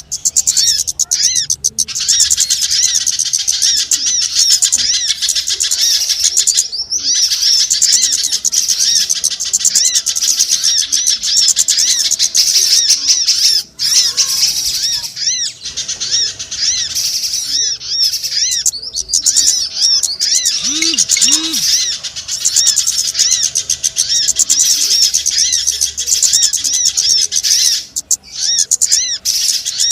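Bird-lure recording of many small birds twittering together: a dense, unbroken mass of rapid high chirps, played to call small birds in. Two short, lower calls come about two-thirds of the way through.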